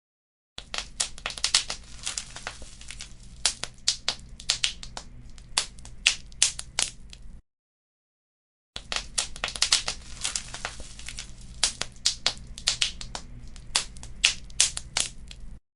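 Fireplace fire crackling and popping over a low steady rumble, in two stretches of about seven seconds, each cutting off suddenly to dead silence.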